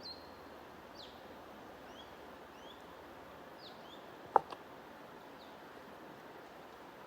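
Birds chirping in short, high, quick notes every second or so over a steady white-noise hiss. A sharp click, followed by a smaller one, stands out a little past the middle and is the loudest sound.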